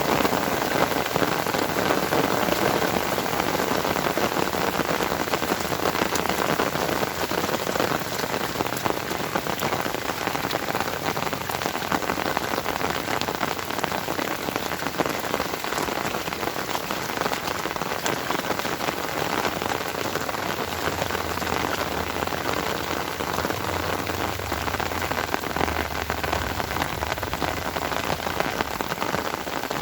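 Steady rain falling on a surface: a dense, even hiss of drops with scattered sharper individual drop ticks.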